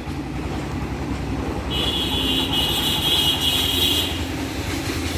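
Steady low rumble of distant road traffic. For about two seconds in the middle, a high, shrill ringing tone sounds over it.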